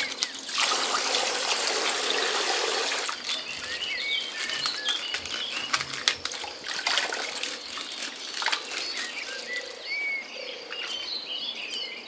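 Coloured water gushing out of a punctured plastic ice-pack bag for about two and a half seconds, then clicks and crinkles as the wet plastic bag is handled.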